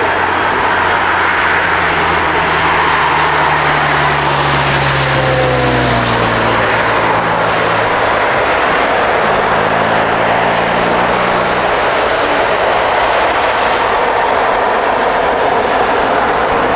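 Jet engine noise of a landing Air France Boeing 777-200ER passing close by: a loud, steady roar, with low hums that slide down in pitch in the middle as it goes past.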